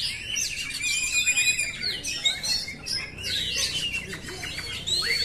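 Oriental magpie-robin (kacer) singing a rapid, unbroken run of varied whistles, rising and falling glides and chirps.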